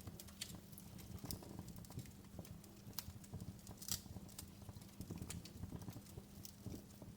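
Wood fire crackling in a fireplace: irregular sharp pops and snaps over a low rumble of flames, with the loudest pop about four seconds in.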